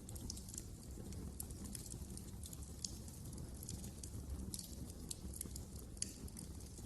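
Fire in a fireplace crackling: many small irregular crackles and snaps over a low steady rumble, with one louder pop about six seconds in.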